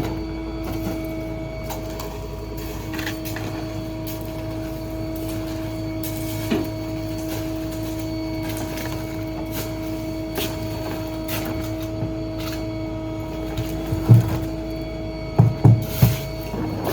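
Small rear-load garbage truck (Ford F-550 with a New Way Diamondback body) running with a steady, even whine. A heavy thump comes about fourteen seconds in, and three more follow close together about a second later.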